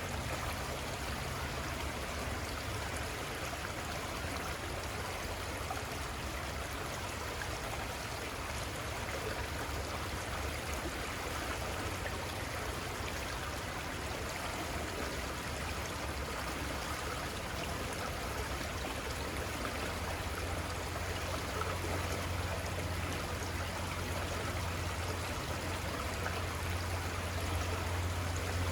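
Steady rushing and trickling of a flowing river, with a low rumble underneath that grows stronger over the last several seconds.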